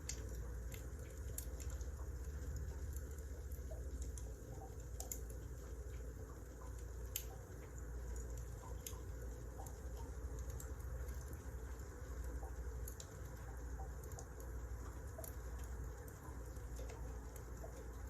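Wood fire crackling: irregular sharp pops and small crackles scattered over a low, steady rumble.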